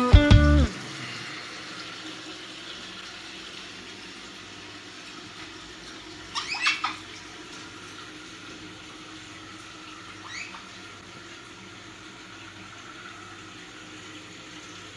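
Background guitar music ends less than a second in, leaving a faint steady hiss. Caique parrots give a quick burst of short, high chirps about six and a half seconds in and a single brief chirp around ten seconds.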